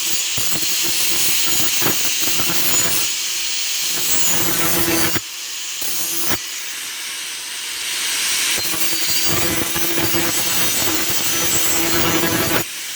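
Power grinder working the steel of an old saw blade: a steady motor whine under a harsh grinding hiss of disc on metal. The grinding eases off for about a second around five seconds in, then carries on.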